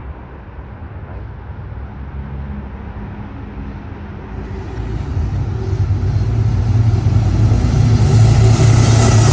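Metro-North commuter train approaching: a low steady hum and rail noise that grow steadily louder from about halfway through.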